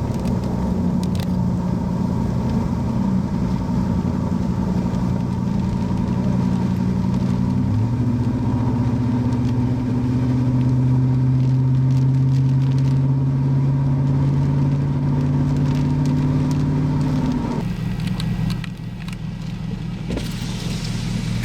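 Car engine and road noise while driving, a steady low hum. The engine note shifts about eight seconds in and falls away about eighteen seconds in.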